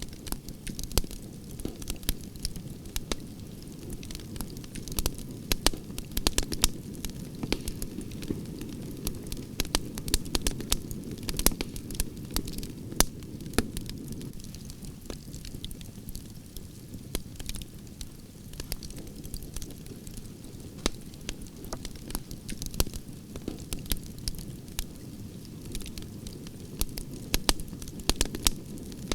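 Wood fire of burning branches crackling, with frequent sharp, irregular pops and snaps over a steady low rush of the flames.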